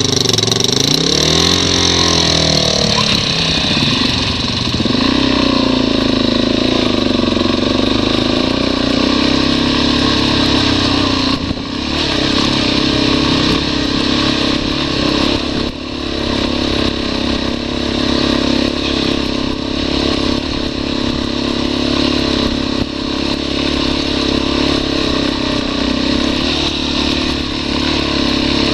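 Dual-sport motorcycle engine pulling up a steep trail climb in first gear. Its pitch rises and falls for the first few seconds, then it holds a steady pitch, with two brief dips in the middle.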